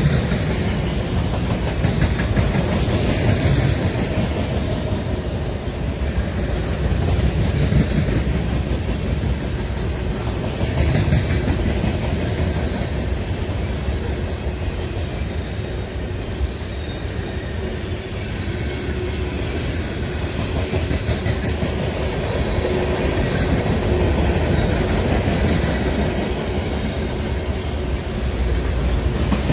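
Mixed freight train rolling past close by, double-stack container cars giving way to open hoppers, with a steady rumble and clatter of steel wheels on the rails.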